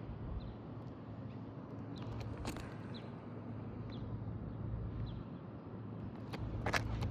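Outdoor ambience with a steady low hum and a faint bird chirp about once a second, broken by a short crackle about two and a half seconds in and louder crackling near the end.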